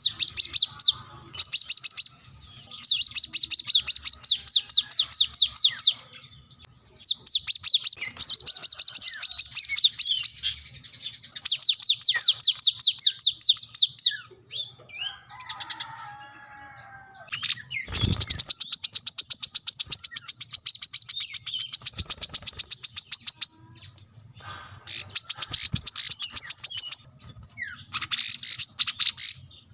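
Brown-throated sunbird (kolibri kelapa) singing its 'wiceh' song: rapid, high rattling trills in bouts of several seconds with short breaks. A few softer, varied twittering notes come partway through.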